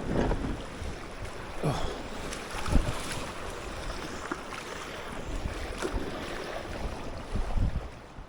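Wind buffeting the microphone in gusts, with a few short knocks scattered through it.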